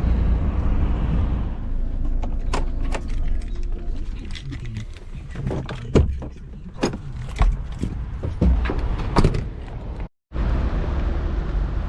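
Lorry's diesel engine giving a steady low rumble in the cab, with a run of irregular clicks and knocks through the middle that break off suddenly near the end, after which the rumble carries on.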